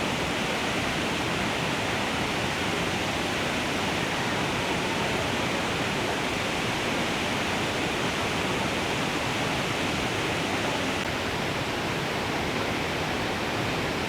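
Iguazu Falls running swollen after heavy rain: a steady, unbroken rush of falling water.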